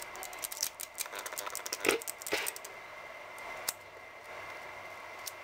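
Rebound valve in a Marzocchi 888 RCV downhill fork knocking and rattling as it is moved: a quick run of light metallic clicks over the first three seconds with two louder knocks near the middle, then a couple of single clicks. The knock is the sign of the rebound valve fitted upside down.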